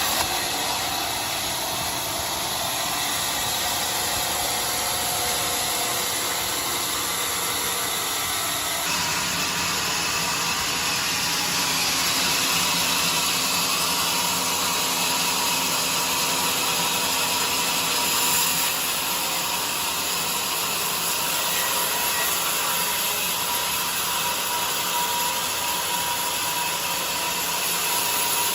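Bandsaw mill running and sawing a jackfruit log, a steady machine noise whose sound shifts about nine seconds in.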